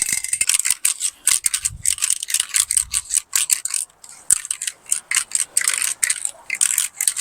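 Aerosol spray can of bed liner being shaken, its mixing ball clattering inside in quick, irregular rattles.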